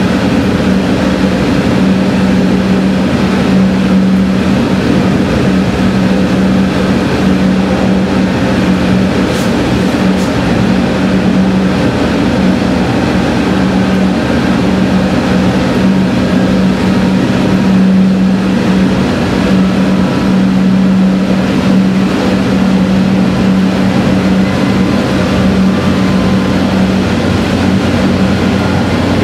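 Diesel railcar running along the line, heard from inside: a steady engine drone with a strong low hum, under an even rumble of running noise.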